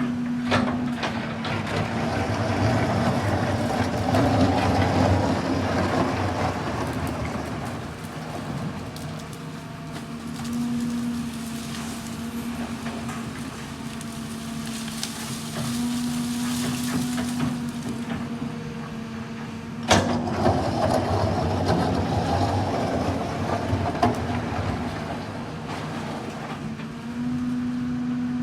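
Heavy construction machine running, its engine noise swelling and easing with load, with a humming tone that comes and goes. A sharp metallic knock comes about twenty seconds in and another a few seconds later.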